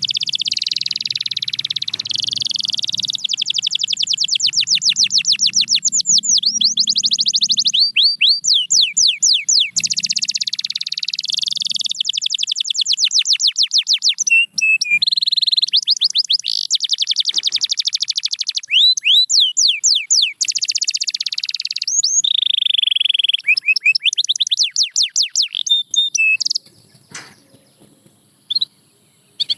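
Domestic canary singing a long, continuous song of rapid trills: rolls of repeated sweeping notes that change speed from phrase to phrase. The song breaks off about 26 seconds in, leaving only a few short notes near the end.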